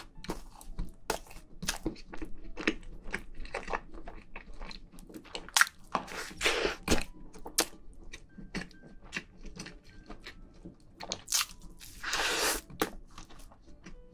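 Close-miked chewing of soft castella sponge cake topped with whipped cream: many short wet mouth clicks and smacks throughout, with a couple of longer squishy noises in the middle and near the end.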